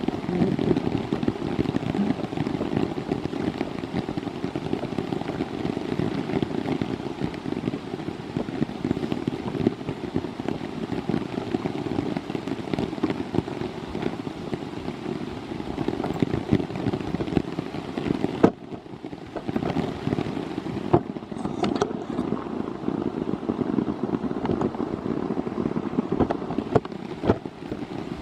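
Heavy rain pattering steadily, a dense spatter of drops hitting close to the microphone. A single sharp knock comes about eighteen seconds in, followed by a short dip in the patter.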